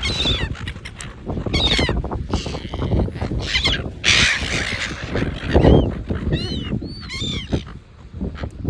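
Seagulls calling: repeated short, high squawks that rise and fall in pitch, several in quick succession in the second half, over a steady low rumble.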